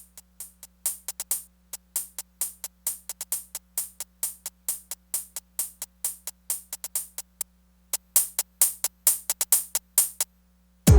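Korg Electribe Sampler ES2 playing a soloed hi-hat-style pattern: crisp high ticks several times a second with no kick or bass under them. The full tech-house beat comes back in at the very end.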